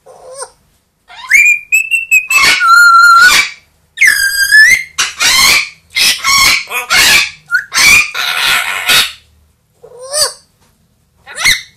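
Pet parrot calling very loudly: a rapid series of whistled calls and harsh squawks with gliding pitch, then two shorter calls near the end.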